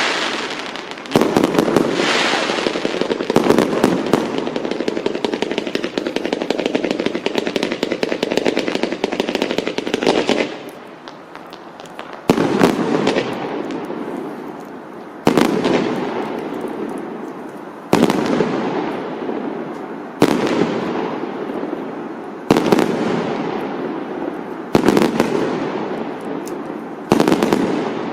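Fireworks going off: a fast string of crackling bangs for about the first ten seconds, then single loud bangs about every two to three seconds, each dying away.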